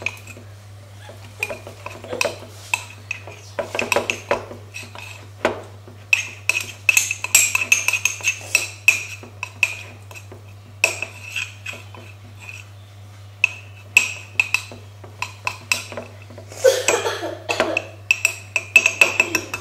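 A spoon stirring mug-cake batter in a mug, clinking and scraping against the sides in irregular runs with short pauses. A faint steady low hum runs underneath.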